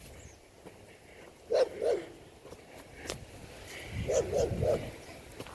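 A dog barking: two quick barks about one and a half seconds in, then three more in quick succession around four seconds in.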